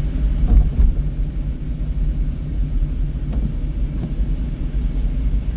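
Car driving, a steady low rumble with a few faint clicks.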